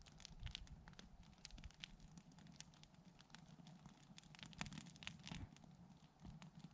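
Campfire crackling faintly, with irregular small snaps and pops from the burning wood.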